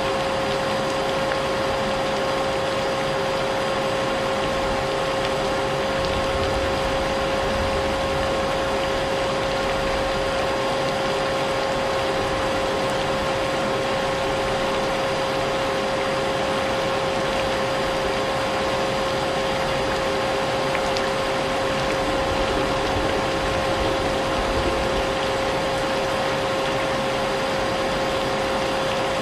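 Vacuum cleaner running steadily with a constant motor whine, layered with the even hiss of rain.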